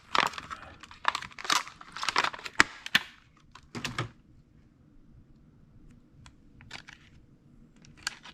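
Stiff plastic packaging crackling and clicking as it is flexed and pulled apart by hand to free a small toy car: a dense run of sharp crackles for about three seconds, a few more snaps around four seconds in, then only scattered faint clicks.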